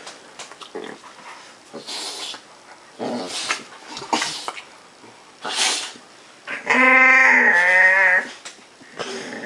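A puppy making odd vocal noises: a few short breathy bursts, then about seven seconds in a long, wavering pitched cry, the loudest sound.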